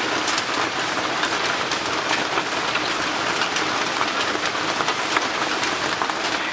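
Heavy rain drumming steadily on the roof, a dense patter of countless small drops.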